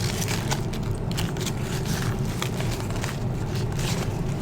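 A fast-food paper bag and sauce packets rustling, with a few light clicks, over a steady low hum.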